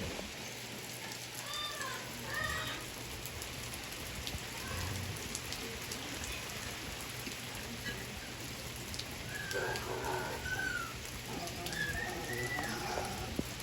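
Steady rain falling, with short pitched animal calls breaking through twice, briefly near the start and again for a few seconds near the end.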